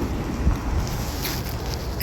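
Strong blizzard wind blowing and buffeting the microphone, a rumbling gusty noise with a few light ticks.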